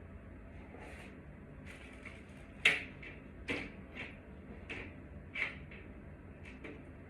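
A series of light, sharp clicks and knocks of hard objects being handled, about six over four seconds, the first and loudest a little before the middle.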